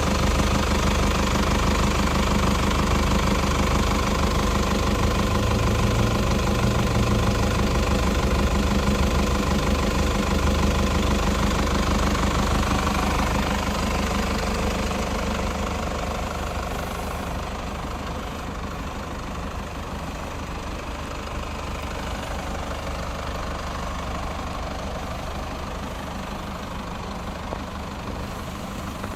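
Toyota Land Cruiser Prado's 3-litre four-cylinder turbodiesel idling steadily with diesel clatter. It gets quieter about halfway through.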